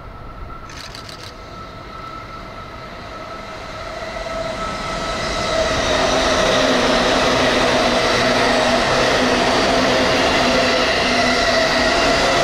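JR East E235-1000 series electric commuter train passing through at speed without stopping. It grows louder over the first five or six seconds as it draws near, then holds as a steady loud rush of wheels on rail with a few steady tones above it.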